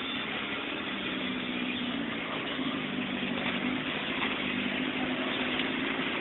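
Suzuki Samurai 4x4 engine running steadily, heard from inside the cab, a continuous hum with a wash of noise over it.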